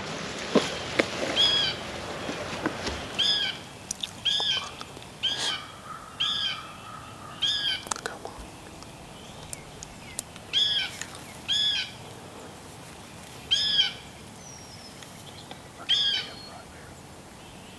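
A bird calling over and over: about a dozen short, arched, clear notes, singly or in pairs, roughly a second apart. A few snaps and rustles of brush come in the first few seconds.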